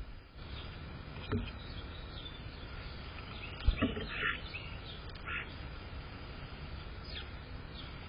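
Short, scattered bird chirps over a steady background hiss and rumble, with a sharp tap just before the busiest cluster of calls about halfway through.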